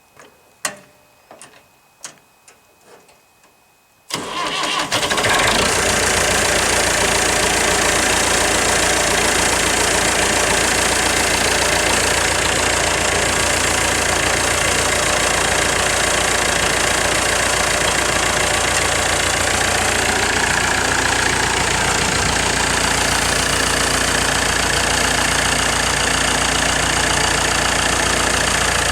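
A few sharp clicks, then about four seconds in an engine starts abruptly and runs loudly and steadily.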